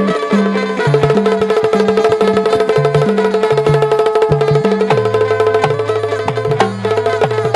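Instrumental interlude of Bundeli folk music: rapid hand-drum and woodblock-like percussion over a steady drone and a stepping bass line.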